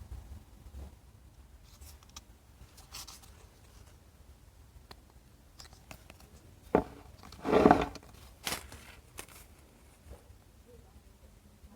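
Parcel packaging being handled and opened: scattered small rustles and clicks, with one louder crinkling burst a little past the middle.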